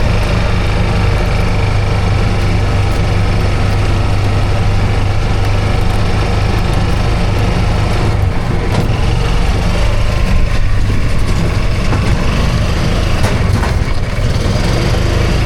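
A small engine running steadily at an even speed, close up, with a strong low hum and a few faint rattles from about eight seconds in.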